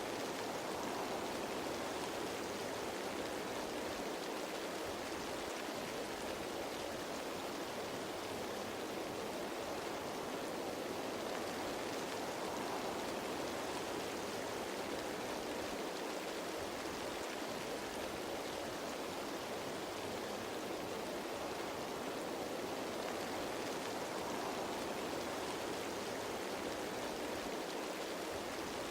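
Rain falling on leaves: a steady, even wash of noise with no single drops standing out.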